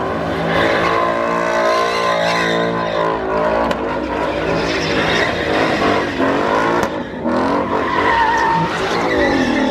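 A car engine revving hard with its tires squealing, as a car spins donuts or does a burnout; the revs rise and fall several times.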